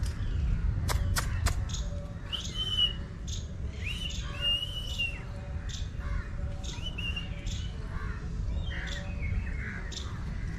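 Birds calling: a run of short chirps and a few upward-gliding whistled notes, over a steady low rumble. Two sharp clicks come about a second in.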